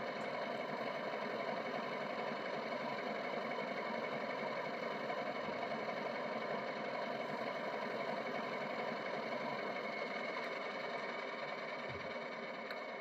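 Model Class 31 diesel locomotive's sound decoder playing a steady English Electric diesel engine sound through its small onboard speaker, easing off slightly near the end.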